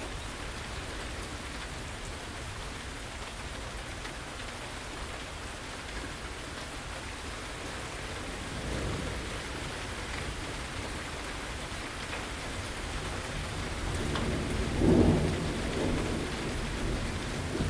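Steady heavy rain with thunder rumbling: a soft rumble about halfway through and a louder roll of thunder near the end.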